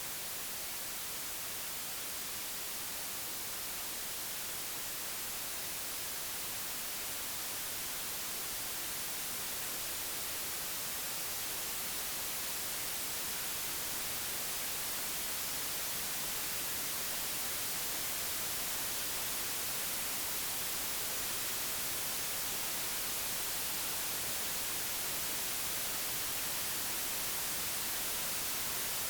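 Computer-generated white noise: a steady, even hiss with no tones or breaks, slowly growing a little louder.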